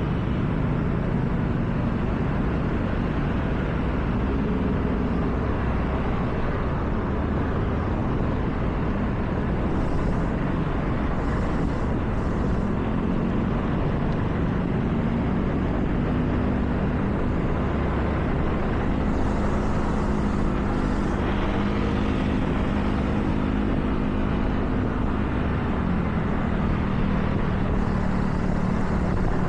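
Car driving on wet road: steady tyre and road noise with a low engine hum. The engine's tone comes up clearly from about halfway through and fades back near the end.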